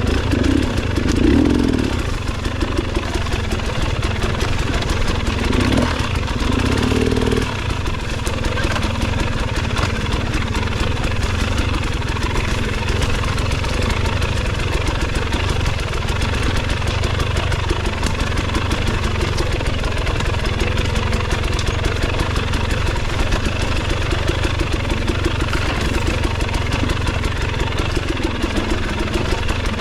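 Motorcycle engine running steadily, with a brief swell a second or so in and again around six to seven seconds.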